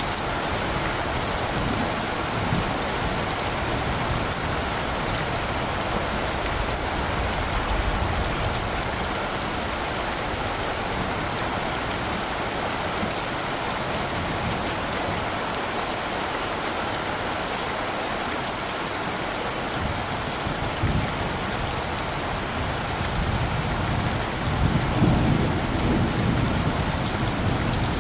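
Steady rain falling. A low rumble of light thunder swells over the last several seconds.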